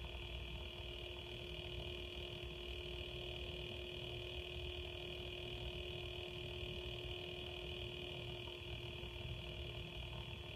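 Swiftech PC water-cooling pump running with a steady high-pitched whine over a low hum, the noise its owner finds concerning.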